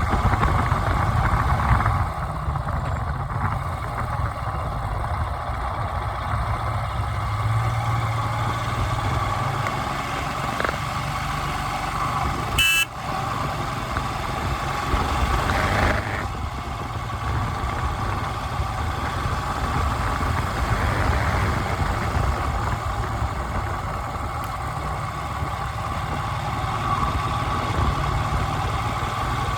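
A vehicle engine running steadily, with one sharp click about 13 seconds in.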